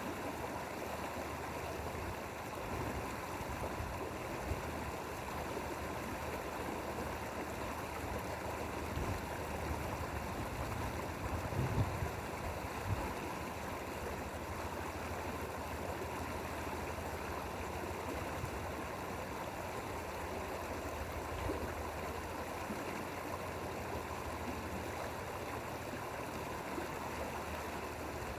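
Mountain stream flowing over rocks, a steady rushing and babbling of water. A few brief low bumps stand out about twelve seconds in.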